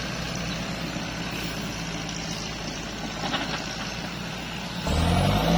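Kubota tractor's diesel engine running steadily, then revving up louder about five seconds in.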